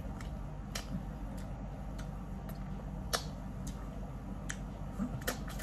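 A person eating seafood close to the microphone: a string of small, sharp mouth clicks and smacks from chewing, roughly two a second, the loudest about three seconds in, over a low steady hum.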